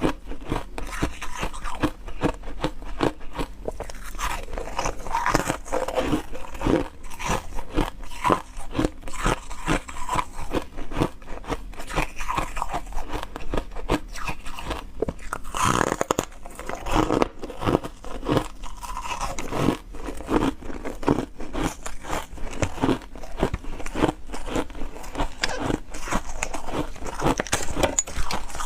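A person biting and chewing ice: a dense, continuous run of crisp crunches, several a second.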